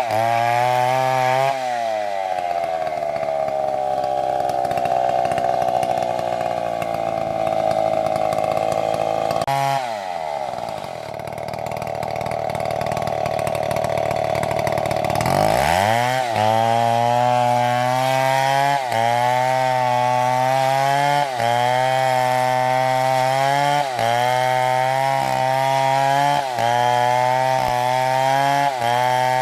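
Chainsaw engine running hard, its pitch sagging about two seconds in and dropping further near the middle before revving back up. After that it holds high with short dips in pitch roughly every two and a half seconds.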